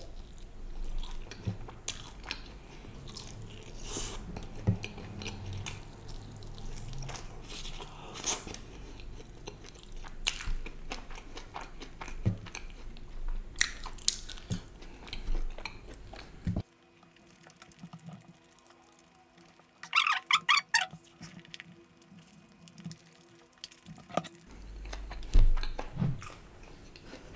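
Close-miked chewing and biting of a sauce-coated chicken lollipop, full of small crunching clicks. About two-thirds through, the background drops suddenly quieter. Near the end there is a low knock as a plate is handled.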